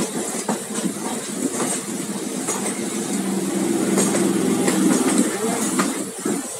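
Rolling noise of a passenger train heard from an open coach door, with irregular clicks of wheels over rail joints. A low steady hum swells in the middle, while a suburban local train runs close alongside on the next track.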